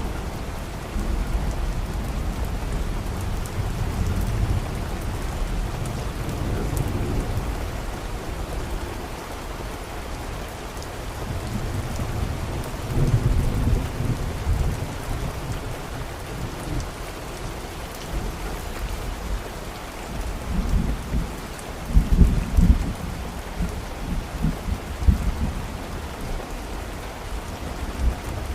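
Steady rain falling with rolling thunder, the low rumble swelling several times and heaviest near the end.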